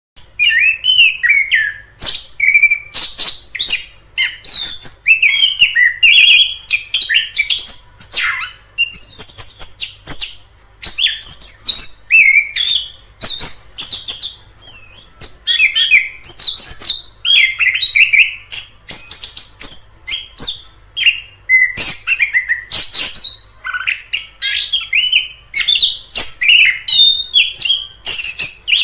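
Orange-headed thrush singing a continuous, varied song of quick whistled and chattering phrases, each a second or two long with short pauses between them.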